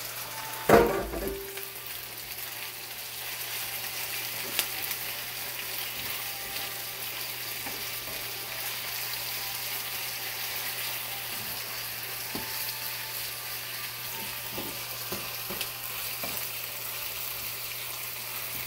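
Chicken livers sizzling steadily as they fry in a pan with garlic, onion and potatoes, with a loud knock about a second in and light scrapes and clicks of a spoon stirring them.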